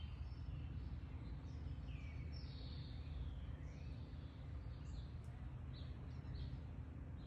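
Backyard songbirds chirping: scattered short chirps and a few gliding whistled notes, with a cluster of quick chirps near the end, over a steady low background rumble.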